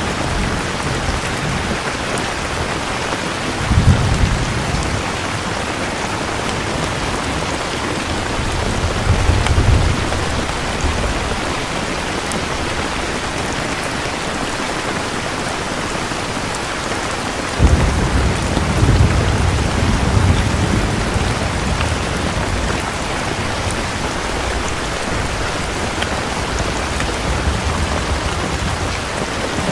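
Steady heavy rain falling, with low rolls of thunder rumbling about four seconds in, again around nine to ten seconds, and a stronger clap starting about eighteen seconds in that rumbles on for a few seconds.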